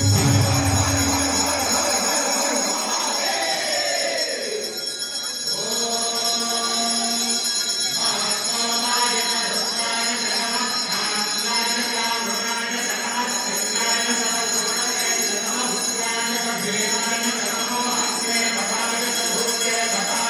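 Handbell rung continuously in a steady jingling ring, over music.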